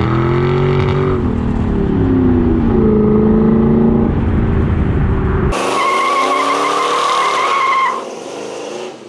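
A vehicle engine running, its pitch rising and falling as it revs. About five and a half seconds in there is an abrupt cut to a wavering, high-pitched tire squeal lasting a couple of seconds, which drops away near the end.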